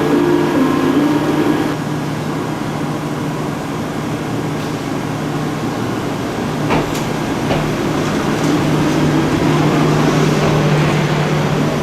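Steady hum and rumble of an Echizen Railway electric railcar, with a few higher tones fading out early on and two short clicks about seven seconds in.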